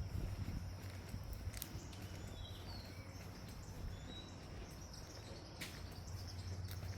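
A few short, faint bird chirps around the middle, over a steady low outdoor rumble, with a few sharp ticks scattered through.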